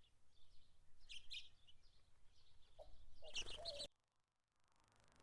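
Faint, short chirps of house finches, a few scattered calls with a louder cluster about three and a half seconds in. The sound drops out completely about four seconds in.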